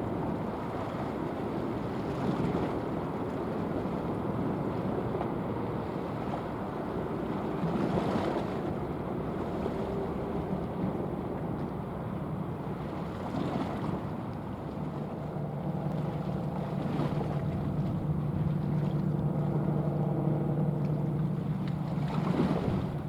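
A passing patrol ship's engines give a steady low drone over a rush of wind on the microphone and water noise. About halfway through, a steady low hum with overtones comes up clearly and holds to the end.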